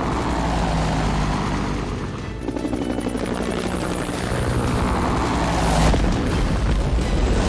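Cartoon helicopter flying, its rotor chopping rapidly over a heavy low rumble. Background music plays with it.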